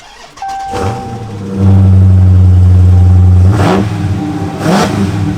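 2015 Dodge Challenger Scat Pack's 6.4-litre Hemi V8 starting up. It catches under a second in and holds a loud high-idle flare for about two seconds. It then settles to a lower idle, blipped twice with quick revs. A short dashboard chime sounds just before it fires.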